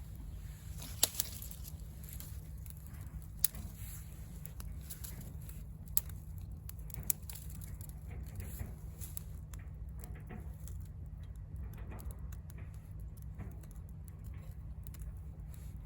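Wood fire burning in a VARGO Hexagon wood stove, crackling with scattered faint ticks and a few sharp pops, the loudest in the first seven seconds.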